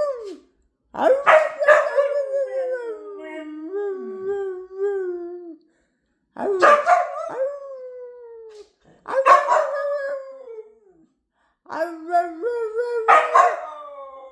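Dog howling in a run of about four drawn-out calls with short gaps. Each call opens with a sharp bark-like yelp and then slides down in pitch; the first is the longest.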